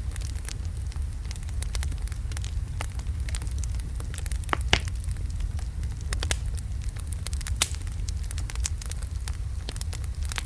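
Wood fire of large logs burning: a steady low rumble of flame with frequent sharp crackles, and a couple of louder pops about halfway through.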